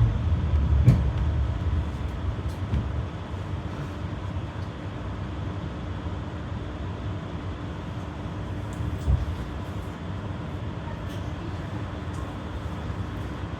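Berlin GT low-floor tram riding, heard from inside: a low, steady running rumble with a faint hum. It is louder for the first couple of seconds and then settles lower, with a sharp knock about a second in and another near nine seconds.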